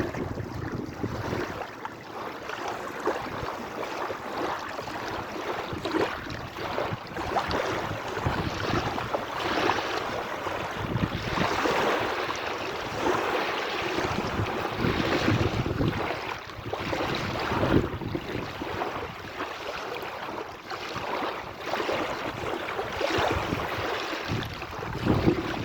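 Sea waves washing and splashing in a continuous surf that swells and eases every few seconds.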